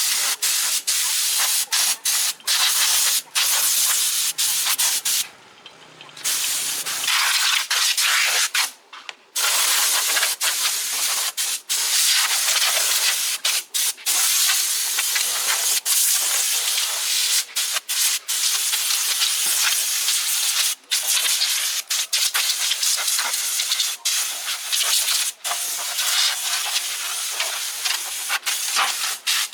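Pressurised spray gun hissing in long stretches, cut off briefly several times as the trigger is let go.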